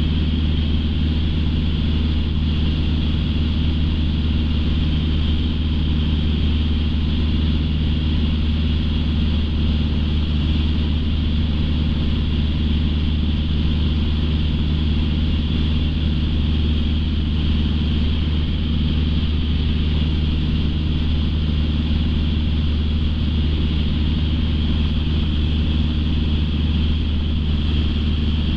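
Light aircraft's piston engine and propeller droning steadily in cruise, heard inside the cockpit, with an even low hum.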